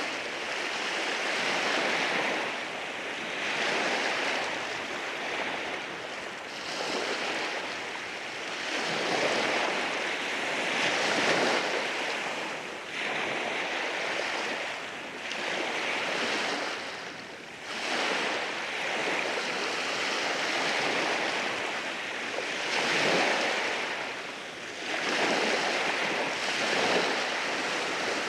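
Sea waves washing in over rocks on a beach, the surf swelling and falling back every two to three seconds.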